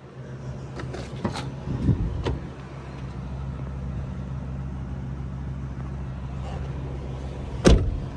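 Ford F-350's 6.8-litre V10 gas engine idling steadily, heard from inside the cab. A few light clicks come in the first couple of seconds, and a single loud thump near the end.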